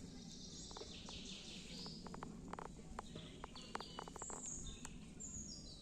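Songbirds singing: high whistled phrases of stepped, falling notes, with a scatter of short sharp clicks in the middle and a steady low background noise underneath.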